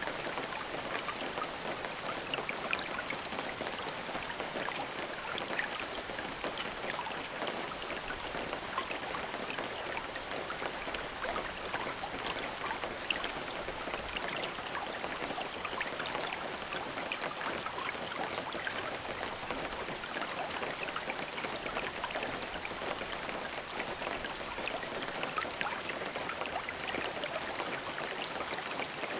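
Steady rain falling, a dense even patter of drops striking a surface.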